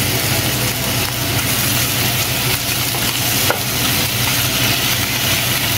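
Ground meat with freshly added napa cabbage and bok choy sizzling in a hot frying pan, a steady hiss, with one sharp click about three and a half seconds in.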